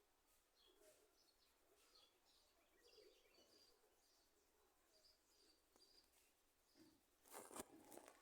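Near silence with faint, scattered bird chirps. About seven seconds in comes a brief, louder rustle.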